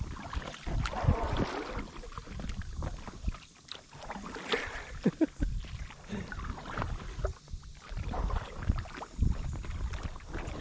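Kayak paddles dipping into the water and splashing in irregular strokes, over low rumbling thumps on the microphone.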